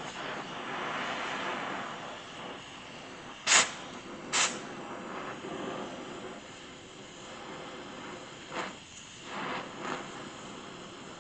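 Gas torch running with a steady rushing hiss as it heats a warped steel plate to draw the warp out, with two short sharp noises about a second apart a few seconds in.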